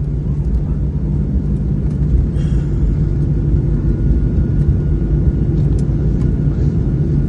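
Cabin noise inside a flydubai Boeing 737 rolling on the ground after landing: a steady low rumble with an even engine hum underneath.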